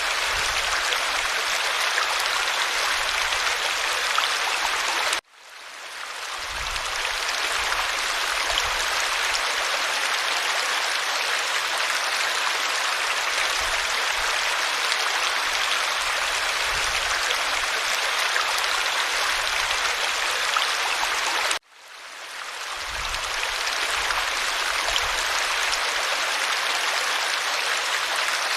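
Babbling stream: steady rushing and gurgling of running water. It cuts out abruptly twice, about five seconds in and again about twenty-two seconds in, and each time fades back up over a second or two.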